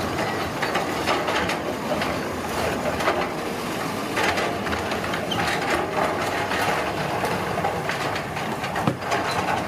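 Road construction machinery at work: a steady mechanical din with frequent irregular clanks and knocks, as of metal on stone and gravel.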